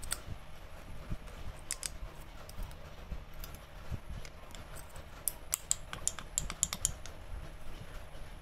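Irregular light clicks and taps of small hard objects being handled, coming thickest about five to seven seconds in, over a low steady hum.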